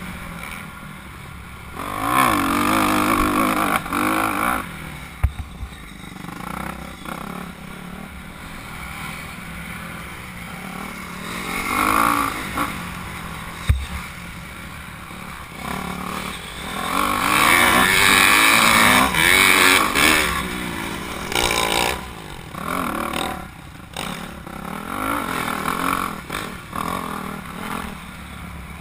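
Honda CRF250R four-stroke single-cylinder motocross bike being ridden hard on a dirt track, its engine revving up and falling away as it rises and fades with the bike's distance. The loudest surge comes about two-thirds of the way through. Two sharp knocks are heard along the way.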